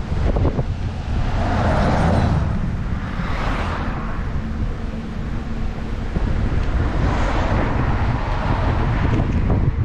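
Wind buffeting the microphone of a moving bicycle, a steady low rumble with a few swelling and fading rushes of noise.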